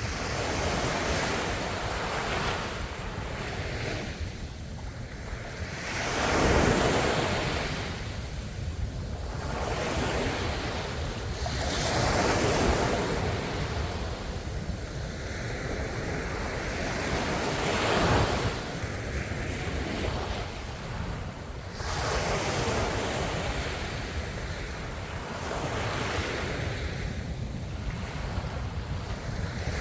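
Ocean waves breaking in slow swells, a louder crash every few seconds over a steady rush of surf.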